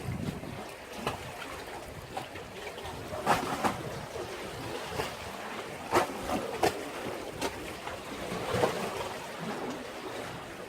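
Sea waves washing and splashing against a breakwater: a steady wash broken by irregular sharp splashes, the loudest about three and six seconds in.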